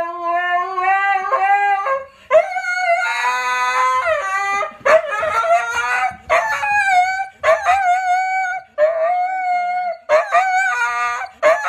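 A dog howling: a string of long, wavering howls broken by short pauses. For the first couple of seconds a second, lower voice howls along.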